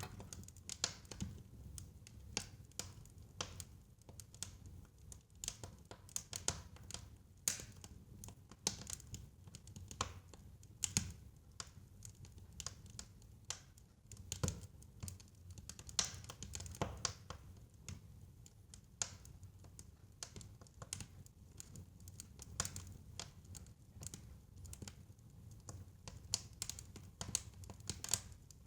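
Fireplace fire crackling, with irregular sharp pops and snaps over a low rumble of flame.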